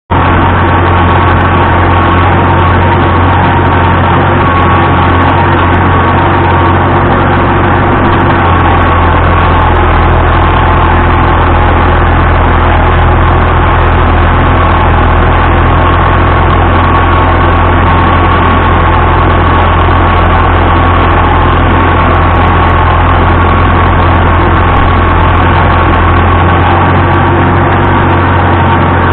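Vintage farm tractor engine running steadily and loudly with a constant low hum.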